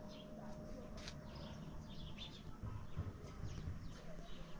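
Small birds chirping faintly, scattered short calls repeating all through, over a steady low rumble.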